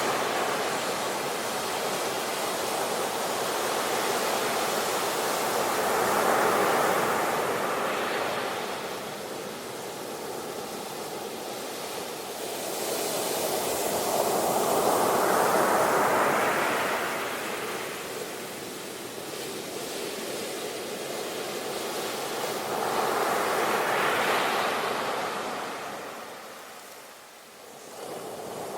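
Sea waves breaking and washing in, three surges about eight or nine seconds apart, each swelling and falling away, with a quiet lull just before the end.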